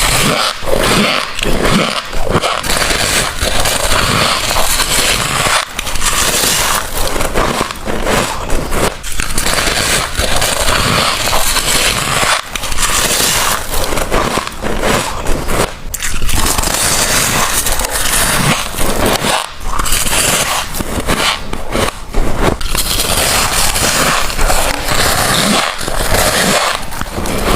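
Close-miked biting and crunching of freezer frost: a dense run of crisp, crackly crunches with short breaks every few seconds.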